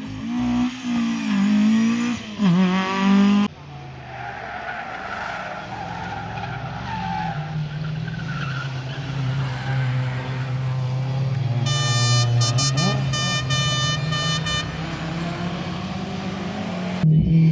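Rally car engines at speed: a revving, pitch-swinging engine for the first few seconds, then after a sudden cut a steady engine drone that slowly builds. A high whine with several overtones sits over it for about three seconds in the middle.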